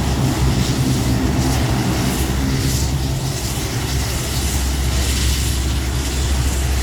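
A C-130's four turboprop engines running with a steady low drone and a hiss above it.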